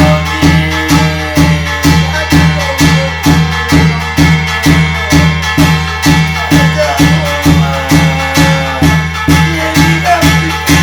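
Korean shamanic gut ritual music: a steady drum beat about twice a second under a wavering melody line.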